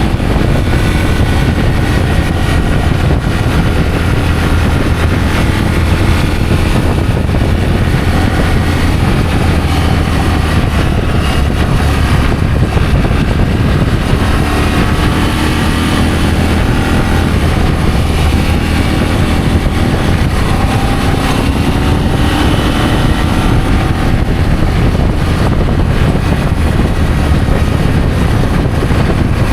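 Adventure motorcycle engine running under way, its pitch slowly rising and falling with the throttle over a steady low rumble.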